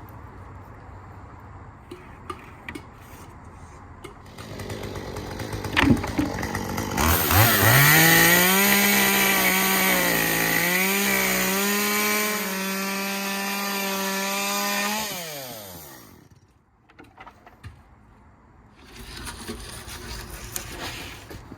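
Electric power saw spinning up about seven seconds in and running for about eight seconds, its pitch dipping briefly twice, then winding down to a stop. Fainter knocks and handling noises come before and after it.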